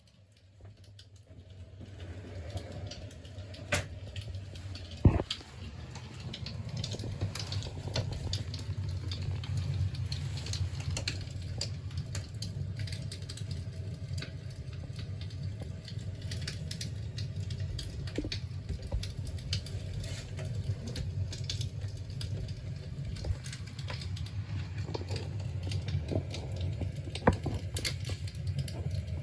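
Crackling fire sound: a steady low rumble with irregular small crackles and occasional sharper pops, the loudest about five seconds in. It fades in over the first couple of seconds.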